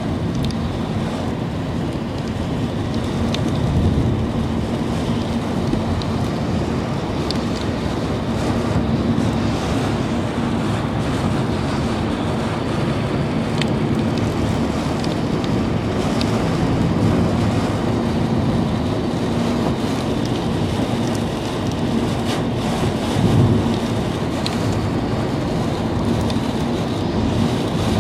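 Car driving through heavy rain, heard from inside the cabin: a steady rumble of the car and wet road with rain hitting the bodywork, and scattered sharp drop ticks.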